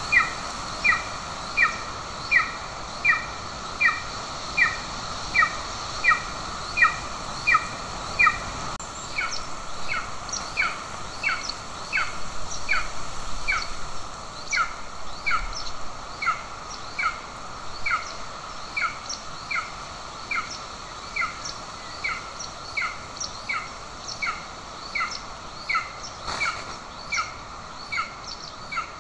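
Golden eagle chick giving food-begging calls: a long series of short, down-slurred piping notes, about one and a half a second, which come a little quicker and less evenly after about nine seconds. They sit over a steady background hiss.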